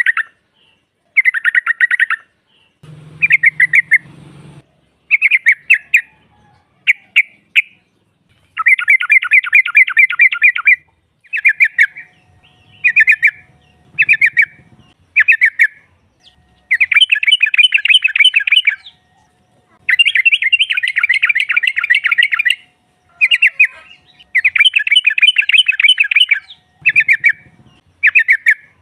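Yellow-vented bulbul (trucukan) chattering calls: repeated bursts of rapid notes, some short and some running two to three seconds, with short gaps between them. These are the calls of a female bird calling a male.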